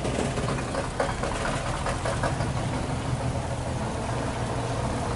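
Heavy truck's diesel engine running steadily at low revs, with a sharp knock about a second in and a few rattles after it.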